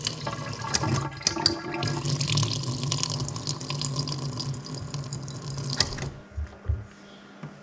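Water running hard from a mixer tap into a sink, with a few clicks, shut off about six seconds in.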